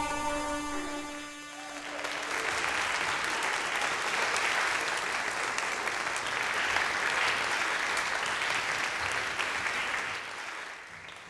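A song's last held notes die away, then an audience claps for about eight seconds, fading out near the end.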